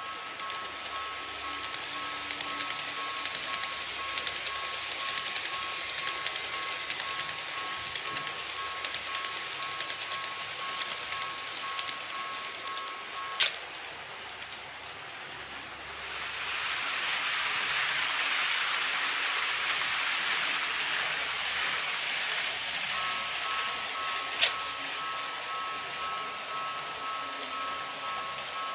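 A model train running on layout track, its rolling noise swelling into a steady hiss about halfway through. A steady two-tone electronic beep sounds before and after it, and two sharp clicks are heard, one just before the hiss and one near its end.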